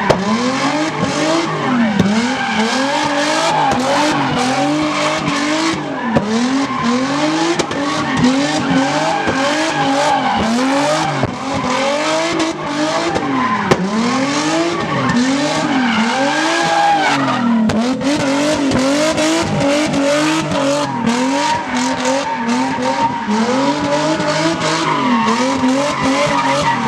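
A vehicle engine revved hard while its tyres squeal and spin in a burnout or donut, the engine pitch rising and falling over and over, about once a second or so.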